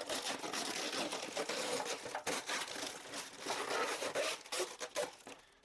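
Sticky plastic packaging being peeled and crinkled by hand: a dense crackling, tearing noise, a sticky, horrible noise, that drops away near the end.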